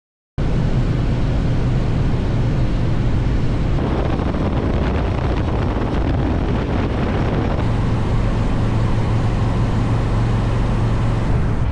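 Harley-Davidson V-twin motorcycle running at road speed, its steady low engine note mixed with heavy wind and road noise. It cuts in abruptly just after the start, and the engine note shifts slightly a couple of times.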